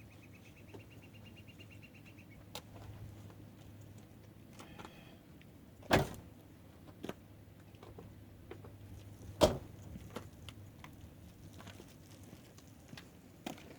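Two sharp knocks, about three and a half seconds apart, with scattered light clicks between them over a low steady hum.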